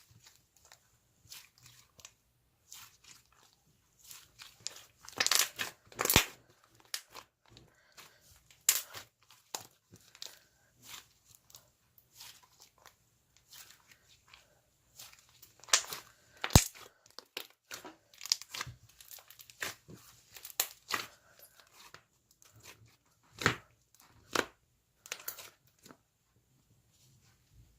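Slime being squished and stretched by hand, giving irregular crackling and sharp popping clicks, with a few louder pops.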